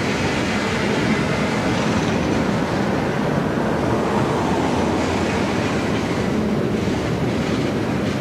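A train passing: steady rolling noise of steel wheels on the rails.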